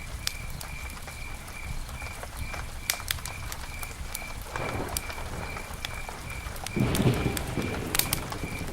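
Campfire crackling, with scattered sharp pops and two brief louder flare-ups of the flames, about halfway through and near the end.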